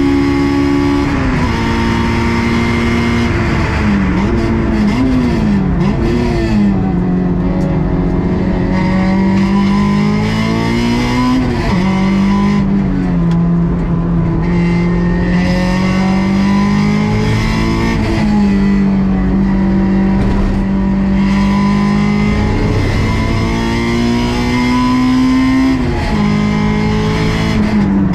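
Honda S2000 (AP2)'s stock four-cylinder engine driven hard, its revs climbing steadily and dropping sharply at each gear change, several times over. About four to six seconds in the pitch dips and jumps in quick succession, like downshifts with throttle blips.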